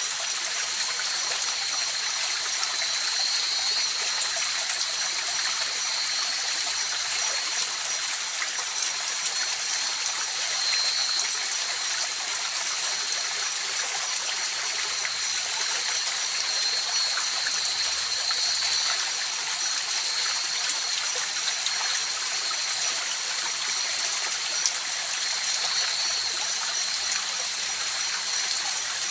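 River water flowing steadily, an even rushing hiss, with two faint steady high-pitched tones running through it.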